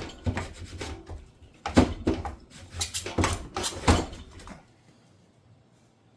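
Irregular knocks, clicks and scraping as dishwasher door parts are handled and worked on, stopping about four and a half seconds in.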